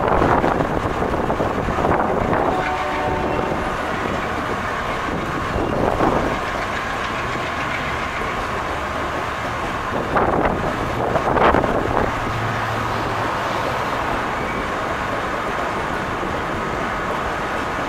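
Humsafar Express passenger coaches rolling along the track: a steady rumble of wheels on rail, with several short, louder surges of wheel clatter as the wheel sets cross rail joints.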